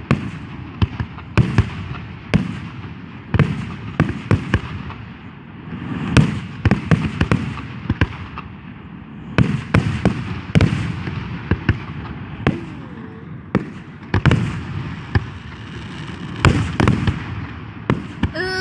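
Aerial fireworks going off: dozens of booms and sharp cracks at irregular intervals, some in quick runs, over a continuous low rumble.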